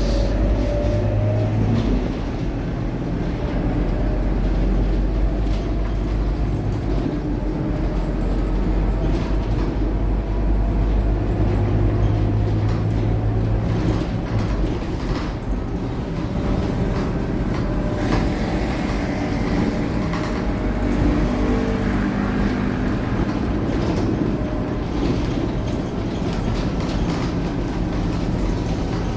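Scania K230UB city bus's five-cylinder diesel engine running under way, with a strong low hum whose pitch rises and falls as the bus changes speed. Road noise and short rattles and clicks run alongside.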